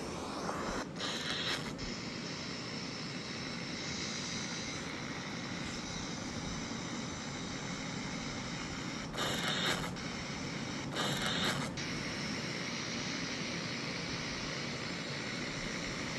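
Steady mechanical clatter and rumble, with three short louder bursts of hiss about one, nine and eleven seconds in.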